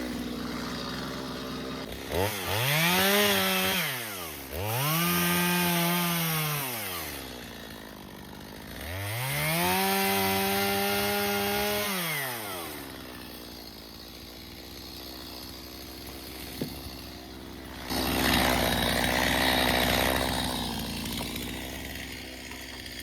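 Stihl MS 250 two-stroke chainsaw idling and revved to full throttle three times, each rev held a second or two at a steady high pitch before dropping back to idle. Near the end it runs up again for a few seconds with a rougher, noisier sound.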